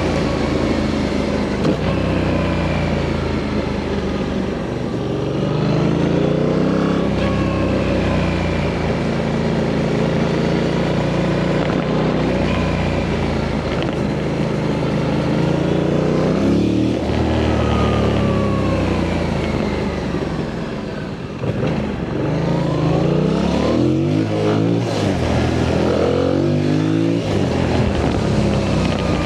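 Yamaha MT-07's parallel-twin engine through its stock exhaust, ridden hard: the revs climb and drop back again and again as the rider accelerates, shifts and backs off. Its loudness dips briefly about two-thirds of the way through before it pulls again.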